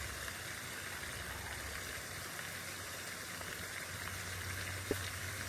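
Steady, faint outdoor hiss with no clear single source, and one small click near the end.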